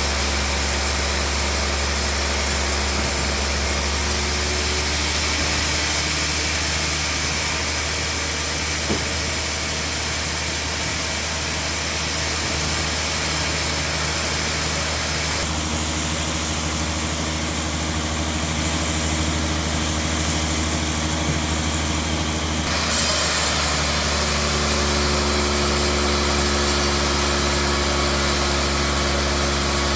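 Sawmill bandsaw machinery running steadily with a strong low hum. The sound changes character about four seconds in, again around the middle, and once more about two-thirds of the way through.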